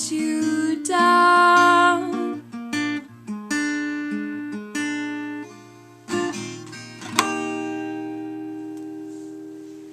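Acoustic guitar picking single notes, then closing on one strummed chord about seven seconds in that rings and slowly fades away.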